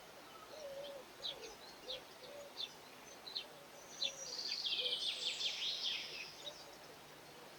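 Garden birds chirping, with a burst of rapid twittering song about four seconds in and a soft, low cooing underneath.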